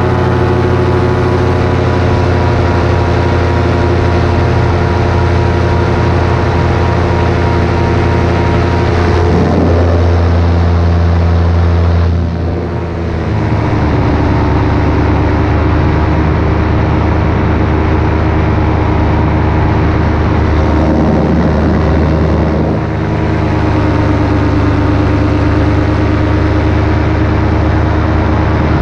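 Paramotor engine and propeller running steadily in flight. The pitch and level drop briefly, as the throttle is eased, about twelve seconds in and again more lightly near twenty-three seconds, then come back up.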